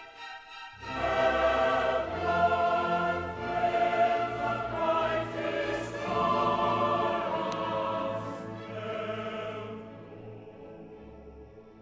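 Choir singing sustained, wordless-sounding chords over orchestral music, starting about a second in after a brief dip and fading away near the end.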